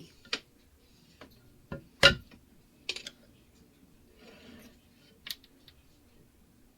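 Scattered light clicks and knocks of a glass cutting board and craft tools being handled on a work surface, with one sharper knock about two seconds in and a brief soft rub a little past the middle.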